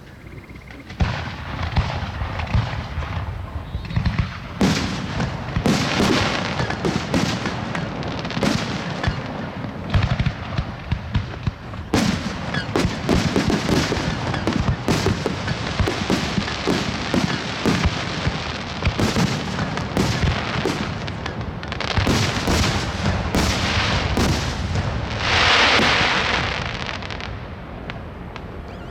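Aerial fireworks going off in rapid, dense succession: a near-continuous barrage of bangs and crackles, with a loud hissing rush near the end before the bursts die away.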